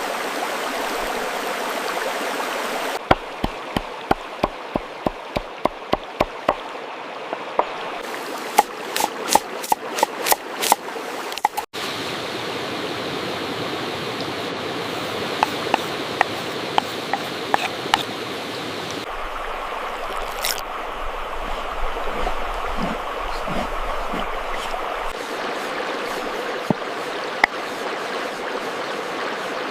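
Steady rushing, water-like noise that shifts at several cuts. In the first third it is broken by a run of sharp knocks, about two a second, and a few single knocks come later.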